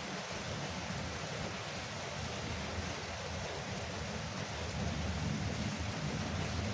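Steady rain falling on a porch roof, an even hiss of drops with a low rumble underneath that swells slightly about five seconds in.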